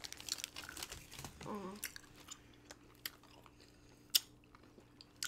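Close-up chewing of hard, chewy sour apple jelly candy balls: wet mouth clicks and smacks, with a short hummed "mm" about a second and a half in and a sharper click a little past four seconds.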